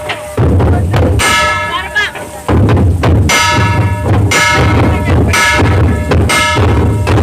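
Dhol-tasha pathak playing: big dhol drums pounding a dense, steady beat, with bright metallic ringing strikes about once a second over them.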